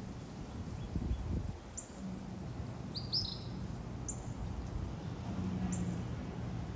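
Small songbird singing: short high chirps repeated about every two seconds, with a quick run of several notes about three seconds in. A low rumble of wind or handling noise runs underneath.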